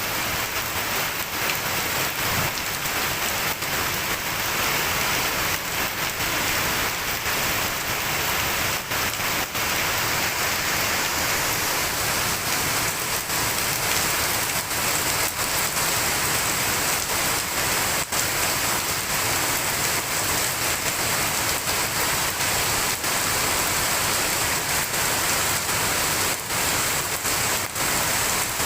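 Heavy rain falling steadily, a dense hiss with many separate sharp drop hits scattered through it.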